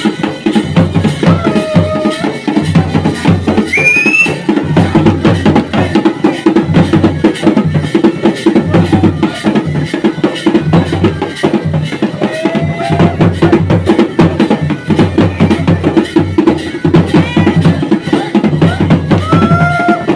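Garhwali dhol and damau drums beating a dense, steady rhythm, with a few short sliding pitched notes over the drumming.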